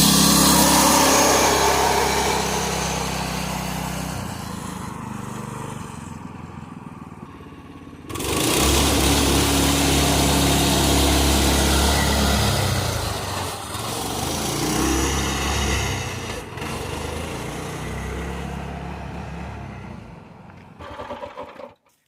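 Harbor Freight Predator 212 single-cylinder engine powering a small pickup, running at a steady speed. It fades over the first several seconds, comes back loud abruptly about eight seconds in, fades again, and cuts off just before the end.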